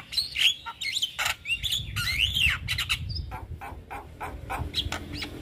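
Javan myna singing a rapid, varied song of whistled rising and falling glides mixed with many short harsh clicking notes.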